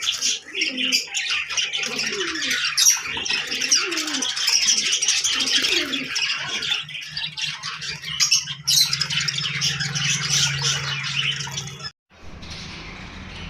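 Many birds chirping and squawking at once in a dense, continuous chatter. It breaks off suddenly near the end, and a quieter chatter follows.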